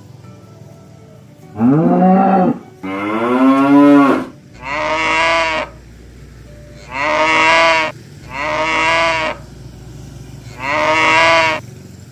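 Oxen mooing: six loud moos, the first two close together with the pitch rising and falling, then four shorter, steadier moos spread out after them.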